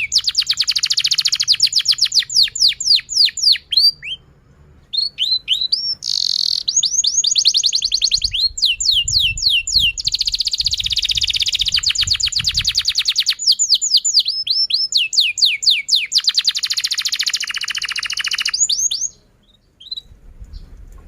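Domestic canary singing a long song: runs of quick, repeated downward-sweeping chirps alternate with rapid rolling trills. There are short pauses about four seconds in and again near the end.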